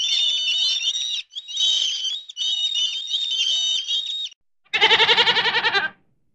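A flock of gulls calling in a steady chatter of high calls for about four seconds. After a short pause, a goat gives one loud, wavering bleat lasting about a second.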